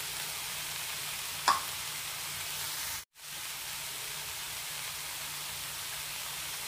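Cauliflower and red gram thoran sizzling in a pan as a steady hiss. A single sharp tap comes about one and a half seconds in, and the sound drops out briefly just after three seconds.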